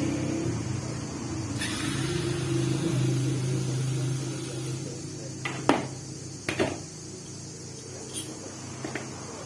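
A low electric motor hum that drops off after about four and a half seconds, followed by four sharp clicks or knocks.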